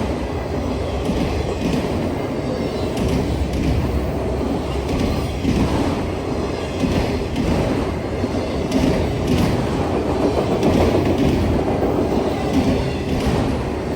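Freight train cars rolling past at steady speed, a continuous rumble of wheels on rail with repeated wheel clicks.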